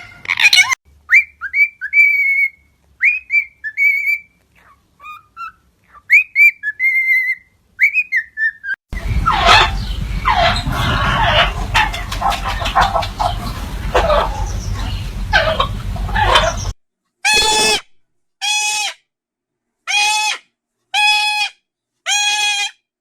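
Parrots calling. First come short high whistled chirps and trills, then a noisy, busy stretch of several seconds, then a series of identical pitched calls repeated about once a second.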